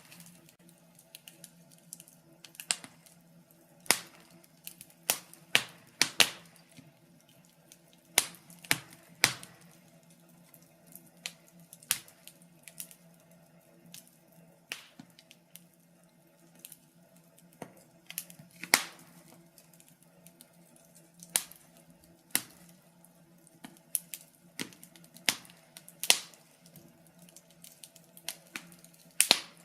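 Wood fire in a fireplace crackling, with irregular sharp pops and snaps, several of them loud, over a faint steady low hum.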